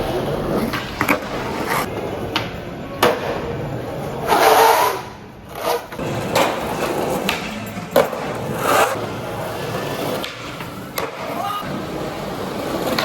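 Skateboard wheels rolling on street pavement, with several sharp clacks of the board hitting the ground and a louder rush of scraping noise about four seconds in.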